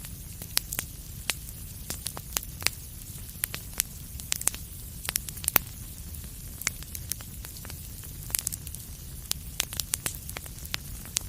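Fire crackling in a fireplace: irregular sharp pops and snaps, several a second at times, over a steady low rumble and faint hiss of the burning.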